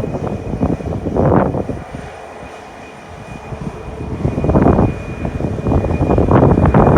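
Boeing 737 MAX 8 jet engines running as the airliner departs, growing louder toward the end, with gusts of wind buffeting the microphone.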